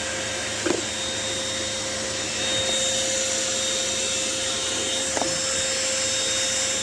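Small handheld car vacuum cleaner running steadily while sucking up dust, with a constant whine and a slight rise in level about two and a half seconds in. Two brief knocks, about a second in and near the end.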